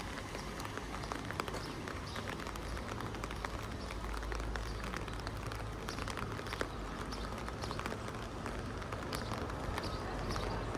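Steady rain falling, with many sharp drop ticks close by and a low rumble underneath.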